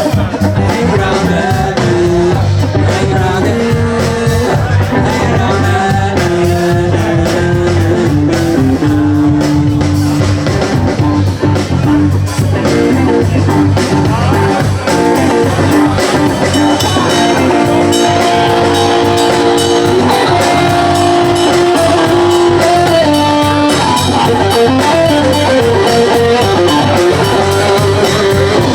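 Live blues-rock band playing: electric guitar with held and bending notes over bass and drums, with some singing.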